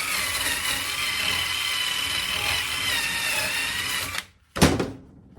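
Motor-driven wire brush running steadily while the accelerator pin from a VW Super Beetle pedal assembly is cleaned on it, with a high whine over a scrubbing noise. It stops about four seconds in and is followed by a single knock.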